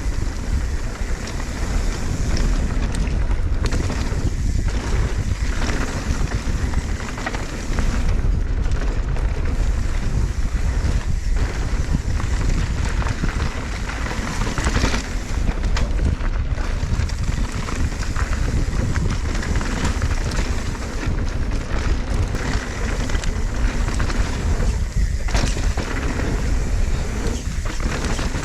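Mountain bike riding down a dirt trail: wind buffeting the camera microphone, with tyre noise and the clatter of the bike over rough ground.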